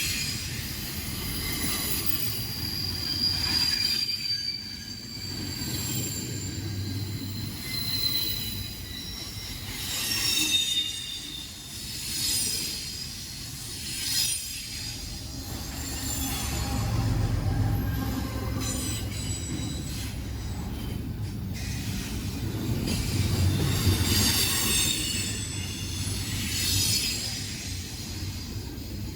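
Freight train rolling past: a steady low rumble of the cars, with the steel wheels squealing against the rails in thin high tones that glide and come and go.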